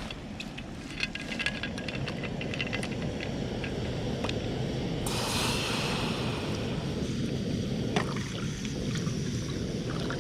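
Water being poured into a camping kettle, with small clicks from handling it in the first few seconds and a brighter hiss of pouring about halfway through. A steady low rushing runs underneath.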